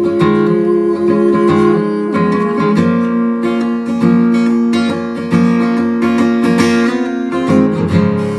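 Acoustic guitar playing an instrumental break between sung verses, chords strummed and notes plucked steadily.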